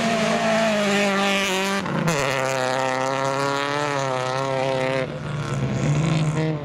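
Racing car engine running at high revs. About two seconds in, its pitch drops sharply; it then holds fairly steady, climbing slightly.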